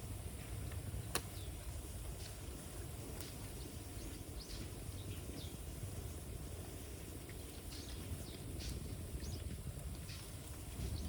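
Bamboo bonfire crackling: a steady low rumble with scattered pops, one sharp crack about a second in. Short high bird chirps come now and then.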